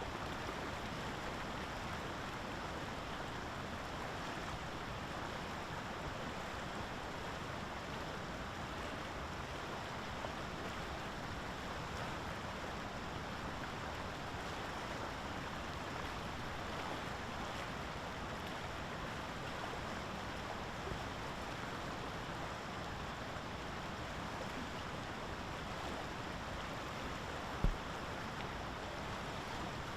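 Steady outdoor rushing noise, with a single short low thump near the end.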